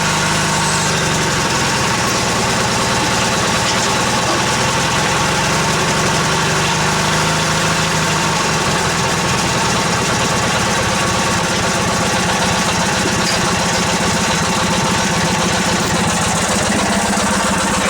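16 hp Briggs & Stratton opposed-twin engine of a Yardman lawn tractor idling steadily on its first start after sitting for months over winter. Its speed shifts slightly a few times, rising again near the end.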